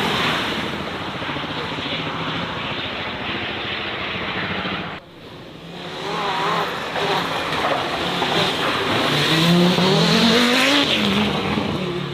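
Racing car engine running hard; after a sudden cut about five seconds in, an engine revs up, its pitch climbing steeply over a few seconds near the end.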